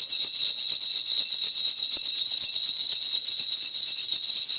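Korean shaman's bell cluster (bangul) shaken continuously in a steady, loud jingling during a spirit divination, cutting off abruptly right at the end.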